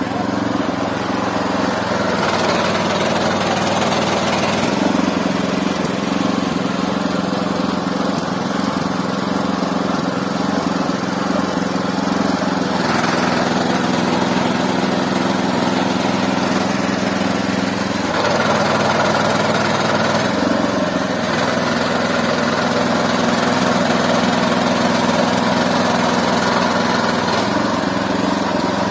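Engine of a mobile band sawmill running steadily, its pitch stepping up and down several times.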